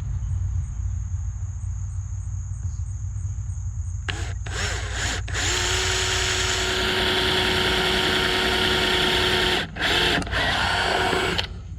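Power drill boring 3/8-inch holes through the wall of a plastic bucket. It gives a few short trigger blips about four seconds in, then runs steadily with a motor whine for about four seconds, stops briefly, and makes two more short runs near the end.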